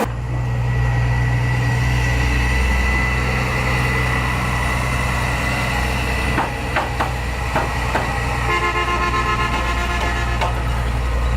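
A motor vehicle engine running steadily, with a few clicks about two-thirds of the way in and a brief horn-like tone near the end.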